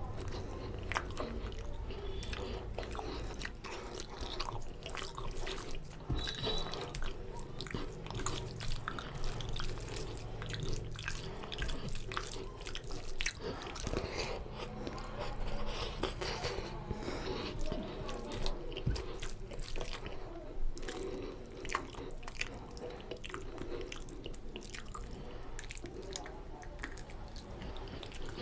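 Wet chewing and lip smacking of a man eating oily mutton curry and rice by hand, with squishing as his fingers work the rice into the gravy.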